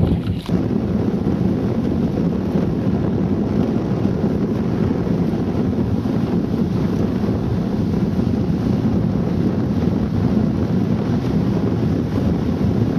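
Strong wind blowing across the camera microphone, a steady low rumble, with a brief knock right at the start.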